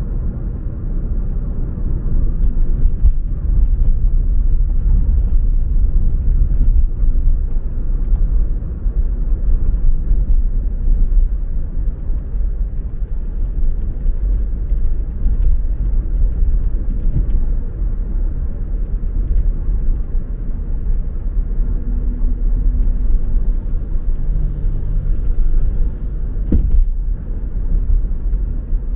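Steady low rumble of a car driving on the road, tyre and engine noise with no speech. A single sharp knock sounds near the end.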